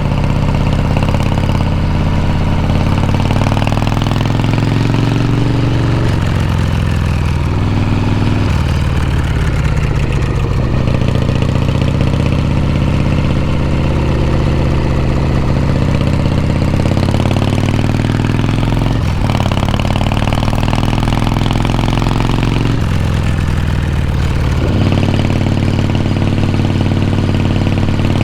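Harley-Davidson Shovelhead V-twin motorcycle engine and exhaust running, the revs rising and falling several times and shifting every few seconds.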